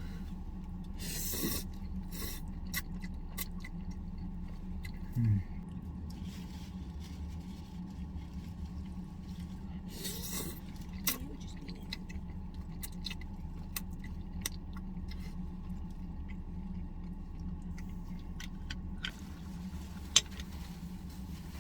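Eating pasta with chopsticks: scattered clicks and scrapes of the chopsticks on the dish, with a few short noisy bursts of slurping and chewing, over a steady low hum. A short, louder low sound comes about five seconds in.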